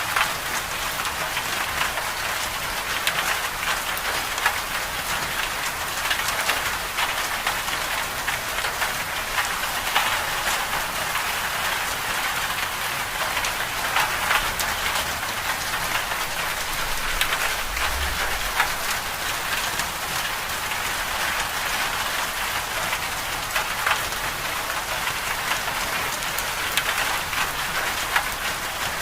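Winter storm ambience: a steady hiss of precipitation pattering on a surface, full of small fine ticks.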